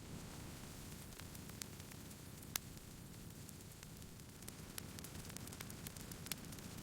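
Wood campfire crackling: scattered sharp pops and snaps over the low, steady hiss of burning, with one louder snap about two and a half seconds in.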